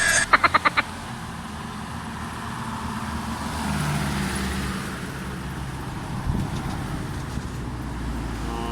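Road traffic: a motor vehicle's engine and tyre noise swells past around the middle over a steady low road rumble, after a quick run of clicks in the first second.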